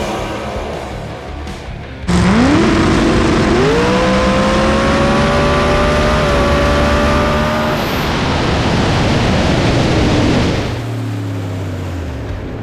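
Drag race car's engine launching hard about two seconds in, pitch climbing quickly and then held at full throttle down the track, backing off around eight seconds in and winding down with falling pitch near the end.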